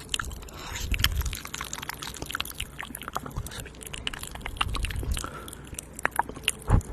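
Close-miked wet mouth sounds: a fast, uneven run of small clicks and smacks, with a few soft low thuds on the microphone, the sharpest near the end.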